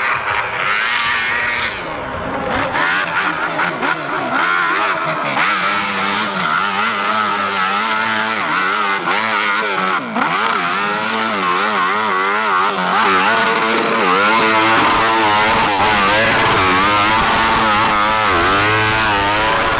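Motorcycle engine revving hard, its pitch rising and falling again and again as the throttle is worked, like a dirt bike fighting up a steep hill climb.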